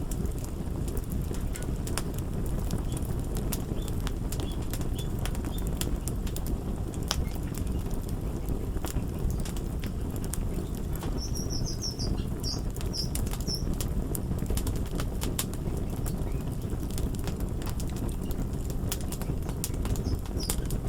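Wood fire crackling: a steady low rumble with frequent sharp pops and snaps, and a short run of high squeaks a little past the middle.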